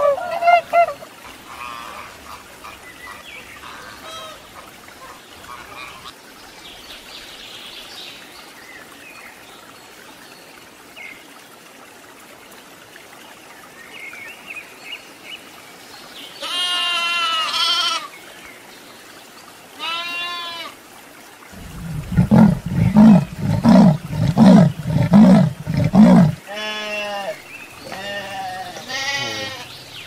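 A mute swan's call right at the start, then faint scattered bird calls. From about 16 seconds in come a series of loud bleats, including a run of deep bleats at about two a second for some four seconds.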